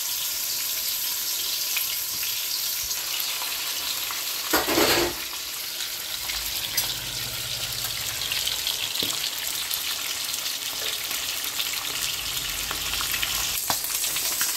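Fish kofta frying in oil in a frying pan: a steady sizzle, with a short louder clatter about five seconds in and a few light clicks.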